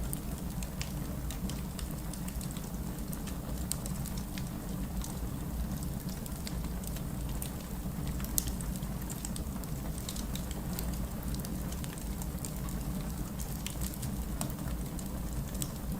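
Fireplace crackling with scattered small pops, one sharper pop about eight seconds in, over the steady hiss and low rumble of rain.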